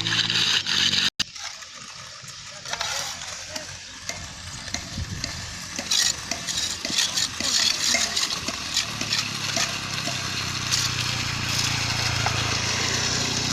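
Wet concrete being placed: a gritty, crackling, sizzle-like noise with many small clicks, louder from about six seconds in. The Hino mixer truck's diesel engine runs underneath, with a steady low hum from about nine seconds. A sudden cut about a second in ends a louder stretch of engine running.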